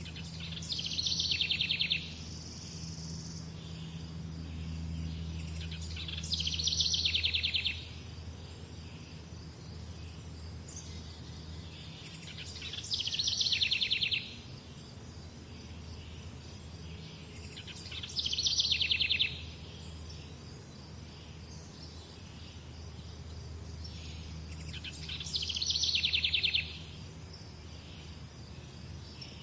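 A songbird repeating the same short song five times, each about a second long, falling in pitch and ending in a fast trill, with pauses of about five seconds between songs. A steady low rumble runs underneath.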